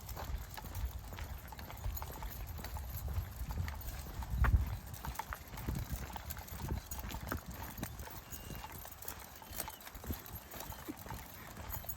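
Footsteps of a person and a pack of dogs walking on a dirt trail: a steady run of small steps, clicks and knocks over a low rumble. There is one louder thump about four and a half seconds in.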